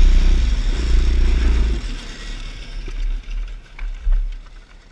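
Small motorcycle engine running, dropping away after about two seconds, followed by a few light knocks.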